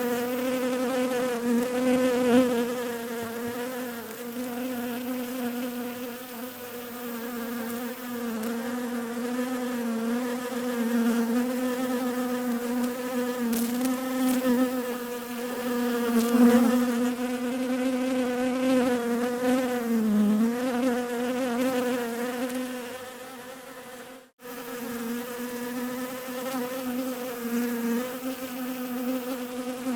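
Bees buzzing in a steady droning hum whose pitch wavers slightly. The sound cuts out for an instant about 24 seconds in, then resumes.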